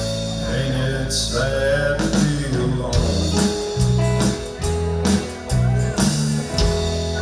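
Live country band playing, with electric guitar, walking bass notes and drum hits in a steady beat.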